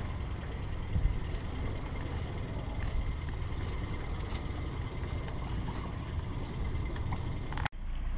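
A small boat's engine running steadily under way, a low rumble mixed with wind and water noise and a few faint ticks. It cuts off abruptly near the end.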